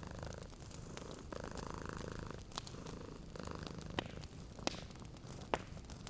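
Cat purring steadily, swelling and fading with each breath, over a fireplace crackling with a few sharp pops.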